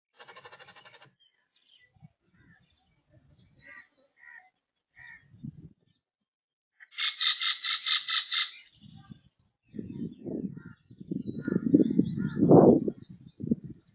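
Birds calling, with scattered short chirps and a loud, harsh, rapidly pulsed call about seven seconds in. In the last few seconds a louder, lower, rough sound takes over.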